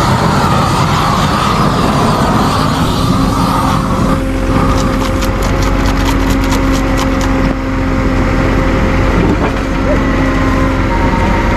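Flamethrower running with a steady, loud rush for about four seconds while thawing frozen winch cables. It then stops, leaving a steady engine hum with a quick run of clicks for a few seconds.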